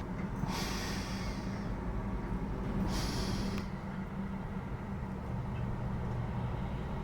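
Heavy truck diesel engines running steadily, with two short air-brake hisses, about half a second in and again about three seconds in.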